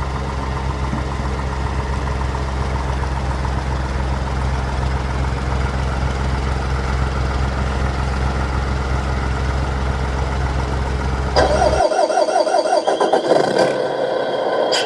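A vehicle engine running steadily with a low drone. About eleven seconds in it cuts off abruptly and a higher-pitched, warbling sound takes over.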